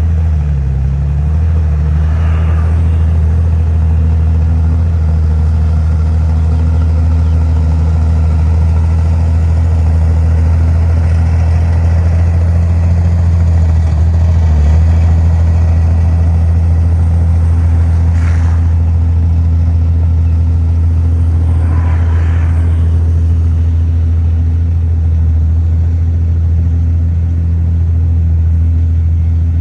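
Heavy diesel engine of earthmoving machinery running steadily with a deep, unbroken drone. Brief higher-pitched sounds rise over it about two seconds in, and twice later.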